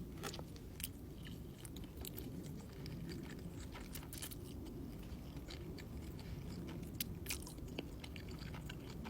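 A person chewing noodles close to the microphone, with many small, irregular wet clicks and smacks of the mouth.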